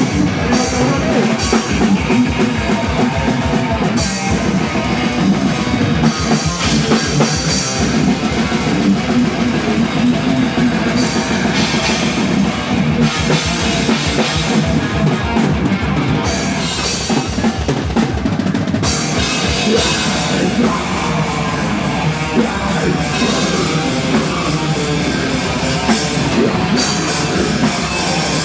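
Loud rock band playing live: fast drum-kit beat with distorted electric guitar, in a heavy-metal style.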